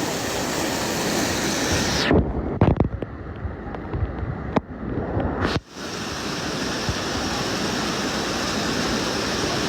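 Steady rushing noise of floodwater. About two seconds in it gives way to a few seconds of muffled low thumps and rumbling, then the rushing comes back.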